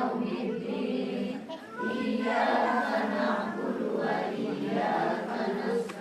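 A group of voices chanting Arabic Quranic recitation together, with a short breath pause about a second and a half in.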